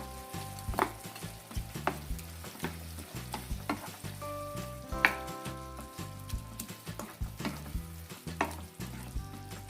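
Chicken in a wet mint-and-yogurt gravy sizzling in a pan as it is stirred, with repeated sharp knocks and scrapes of the stirring utensil against the pan; the loudest knock comes about five seconds in.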